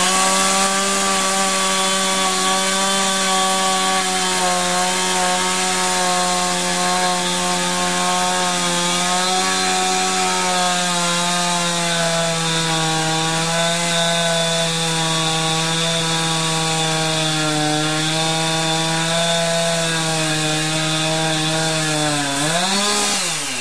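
56cc Husqvarna two-stroke chainsaw running at high revs, its pitch steady with slight wavering. Near the end the pitch rises briefly and then drops sharply as the throttle is let off.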